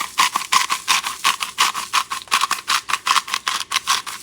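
Salt being shaken into a pot of water from a salt shaker, a quick steady rattle of about six shakes a second.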